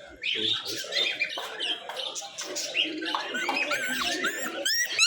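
Pet birds chattering with dense chirps and squawks. About three seconds in, a run of short, arched, high-pitched whimpers starts, about three a second, most likely from a puppy.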